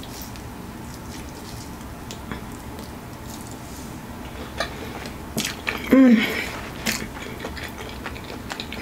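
Close-up eating of a crunchy breaded fried chicken wing: quiet chewing with a few sharp crunchy clicks in the second half. About six seconds in, a short pitched 'mm'-like sound from the eater's voice.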